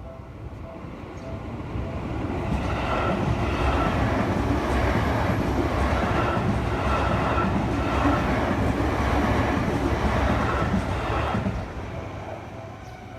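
Japanese level-crossing warning bell dinging about three times a second, then a Seibu Shinjuku Line electric train passing over the crossing for about nine seconds. Its wheels clatter in a steady rhythm over the rail joints before the rumble fades and the bell comes through again near the end.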